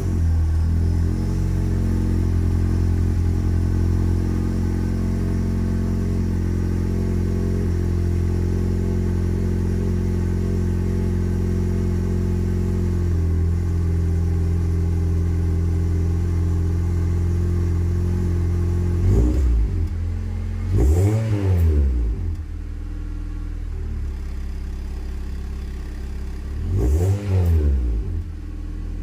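Honda Civic FD engine exhaling through an Ironcrafts Silent-type aftermarket muffler, idling steadily just after a cold start; the idle settles a little lower about 13 seconds in. Near the end the throttle is blipped three times, each rev rising and falling quickly back to idle.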